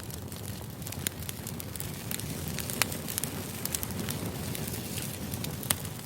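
Steady low rumbling noise with many sharp, irregular crackles and clicks scattered through it.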